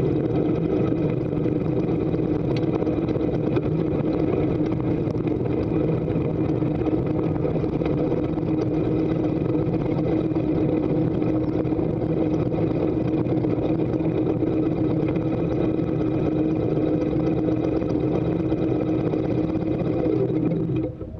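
Harley-Davidson V-twin motorcycle engine running steadily at low speed, then dropping sharply in level near the end as the bike comes to a stop.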